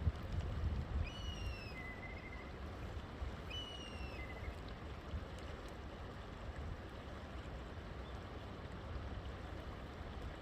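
River water flowing steadily, with a bird calling twice in the first half: each call a short falling whistle followed by a lower note.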